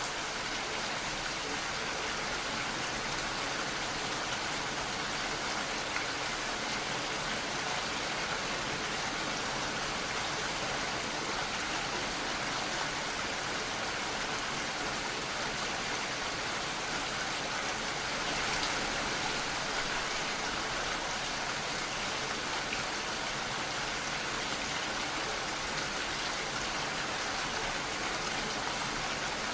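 Steady rain falling, an even hiss with no breaks or single loud drops.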